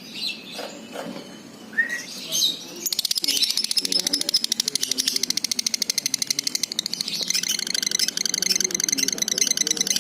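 Lovebird singing: a few short chirps, then about three seconds in a fast, unbroken high chattering trill that keeps going. This long held trill is what lovebird keepers call 'ngunci'.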